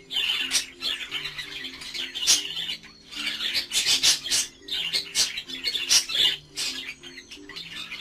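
Budgerigars chattering: repeated bursts of short high chirps and squawks, over background music with a simple low melody.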